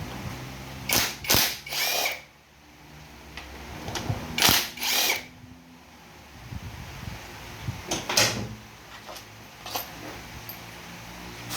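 Handheld power tool run in several short bursts of a second or less, undoing bolts while a 5R55S automatic transmission's filter and valve body are being removed.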